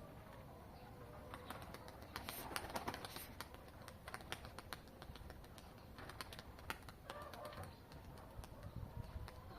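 Domestic pigeons cooing faintly, with clusters of sharp clicks about two seconds in and again from about six seconds.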